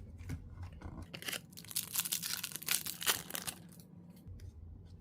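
A hockey card pack's wrapper being torn open and crinkled by hand: a dense run of crackles starting about a second in and lasting a couple of seconds, with lighter handling rustle around it.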